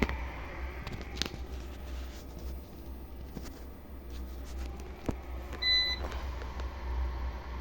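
Diesel heater running with a steady low hum, a few sharp clicks, and one short electronic beep about six seconds in.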